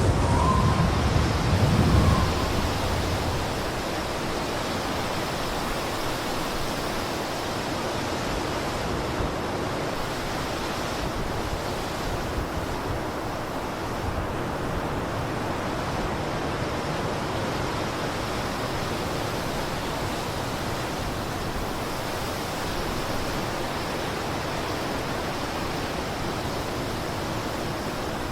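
Blizzard wind blowing as a steady, even rush. A stronger, deeper gust in the first couple of seconds dies away to a constant level.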